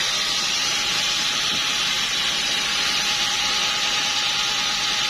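Sawmill machinery running steadily: a constant hissing noise with a faint, even whine underneath.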